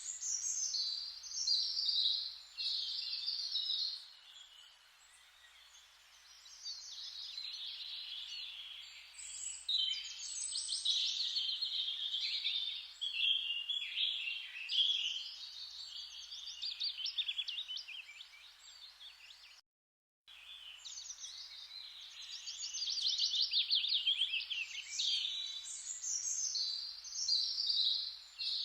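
Forest ambience: birds singing quick trilled phrases over a faint steady hiss. The birdsong goes quieter for a couple of seconds early on, and the sound cuts out completely for about half a second roughly two-thirds of the way through.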